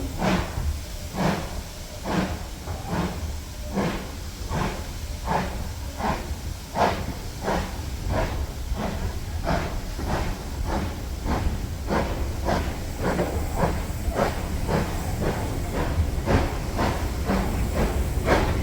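Steam locomotive pulling away from a station stop: its exhaust chuffs come about one every 0.7 seconds at first and quicken steadily to about three a second as the train picks up speed, over a steady low rumble.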